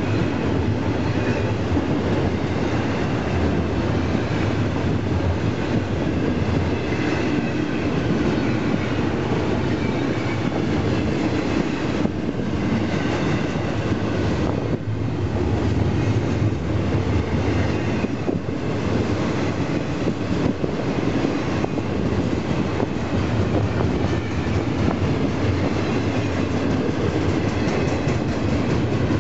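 Double-stack intermodal container cars rolling past at close range: a steady rumble and clatter of steel wheels on the rails.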